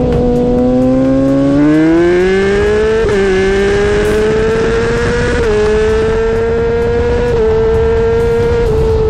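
Kawasaki ZX-10R inline-four sportbike engine at full throttle from a roll: the revs climb, then three quick upshifts a little after three, five and seven seconds in, each a brief small dip in pitch before it pulls again.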